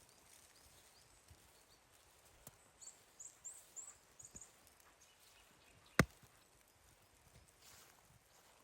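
Quiet outdoor ambience with a short run of faint high chirps near the middle, then one sharp click or snap about six seconds in.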